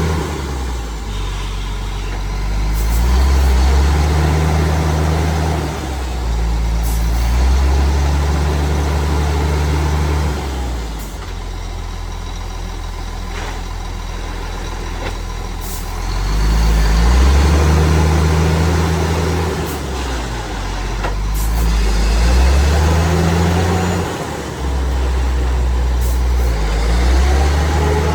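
Heavy truck running in gear on an inspection test bench, with a deep hum that steps up and down every few seconds. Short sharp hisses or clicks come now and then.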